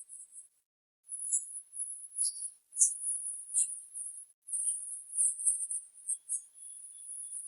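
Crickets trilling, a high-pitched pulsing chorus that drops out briefly just under a second in, with a few short sharper chirps among it.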